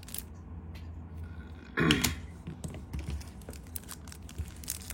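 Small scattered clicks and taps of metal Zippo lighters being handled, with one louder, brief sound about two seconds in that falls in pitch.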